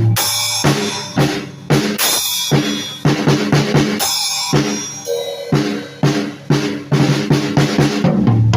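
A drum kit played loosely and freely, with quick bass drum, snare and rimshot hits. Cymbal crashes come at the start, about two seconds in and again about four seconds in.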